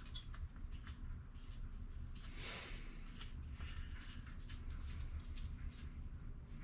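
Faint clicks and light handling noises over a steady low hum, with a brief rustle about two and a half seconds in.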